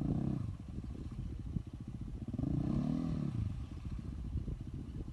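KTM EXC 450's single-cylinder four-stroke engine running with a steady, pulsing idle. It is revved twice, at the start and again about two and a half seconds in, the pitch rising and falling each time.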